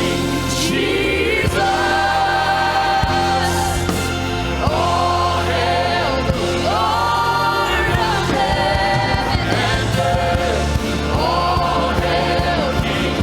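Live contemporary worship music: a band with sustained low instrumental notes under several voices singing a slow melody together.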